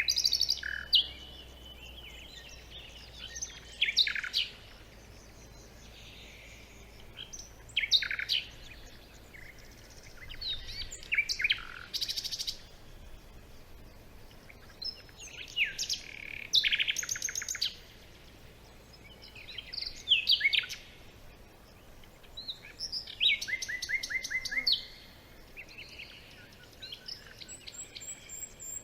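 Several songbirds singing in a forest, with bursts of chirps, down-slurred whistles and rapid trills every few seconds over a faint background hush.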